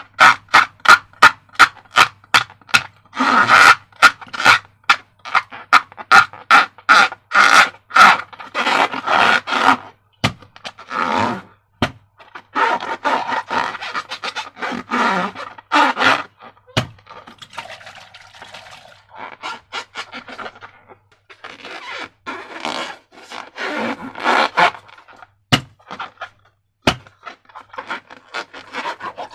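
Slime being worked by hand: a rapid run of short sticky clicks and squelches, dense and loud in the first half, then looser clusters of wet scraping and squishing that thin out toward the end.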